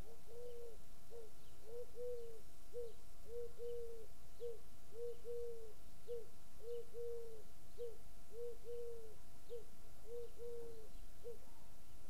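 A bird calling a long string of low notes at one steady pitch, about two a second, alternating short and longer notes, with faint high chirps of small birds behind.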